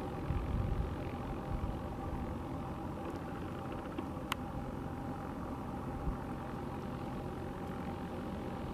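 Steady low engine rumble with a faint constant hum and a few small clicks.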